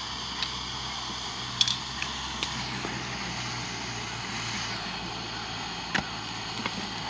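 Wood campfire crackling, with a few scattered sharp pops over a steady background hiss and low hum.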